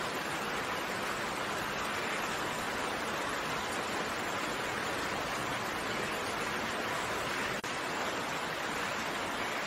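Steady rain falling, heard as an even hiss with no separate drops or thunder standing out; the sound drops out for an instant about seven and a half seconds in.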